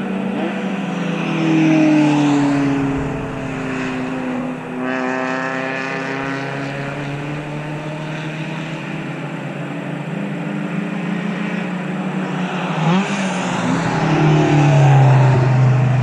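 Racing cars' engines at high revs passing one after another on the circuit, each engine note dropping in pitch as it goes by. Another car grows louder near the end.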